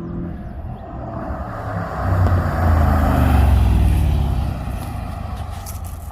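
2012 Jeep Grand Cherokee SRT's 6.4-litre HEMI V8 exhaust with the mid muffler deleted. The engine note swells loud about two seconds in, holds for a couple of seconds, then eases back to a steady rumble.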